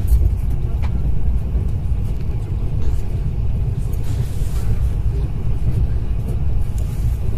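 Passenger train carriage running at speed, heard from inside: a steady low rumble of the wheels and running gear on the track.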